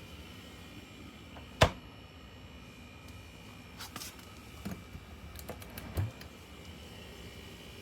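One sharp click about one and a half seconds in, followed by a handful of lighter clicks and taps a few seconds later, as of small objects being handled.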